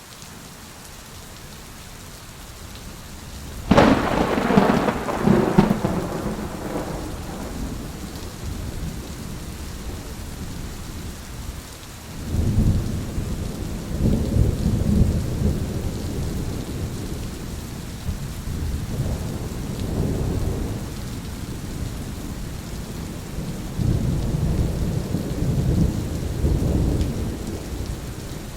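Thunderstorm: steady rain with a sudden sharp thunderclap about four seconds in that dies away over a few seconds, then several waves of low rolling thunder rumbling over the rain.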